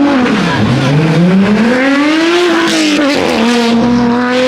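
Car engine revving loudly: the pitch dips, climbs for about two seconds to a peak, drops back about three seconds in, then holds steady.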